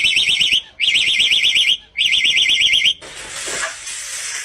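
Electronic alarm sounding a fast-warbling high tone in three bursts of about a second each with short gaps, then a broad noisy sound taking over about three seconds in.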